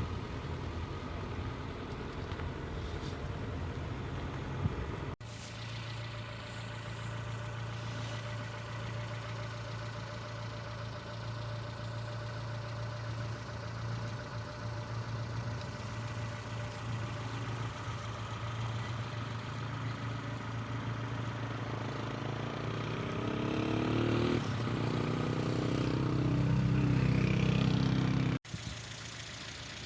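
An engine running steadily, growing louder and rising in pitch in the last third before cutting off suddenly near the end.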